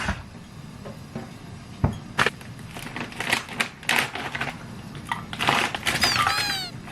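Close-up eating sounds: crunching and chewing of crisp food in irregular crisp bursts. Near the end there is a brief run of high, squeaky chirps that fall in pitch.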